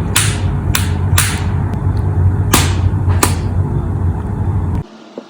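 Microwave oven running with a steady low hum, with several sharp clicks over it; the hum cuts off suddenly near the end as the oven stops.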